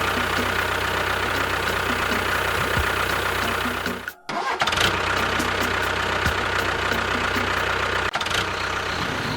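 An engine running steadily. It cuts out abruptly for about half a second just after four seconds in, then runs on.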